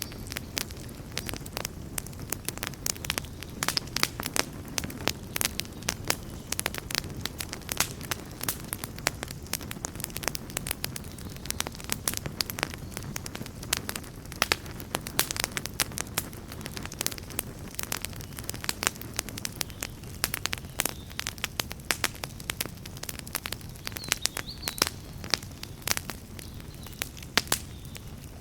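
Campfire burning, wood crackling and popping in rapid, irregular snaps over a steady low rumble of the flames.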